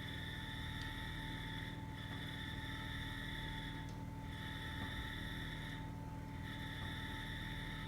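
Campfire burning with a few faint crackles, over a steady hum and a high buzzing that breaks off briefly about every two seconds.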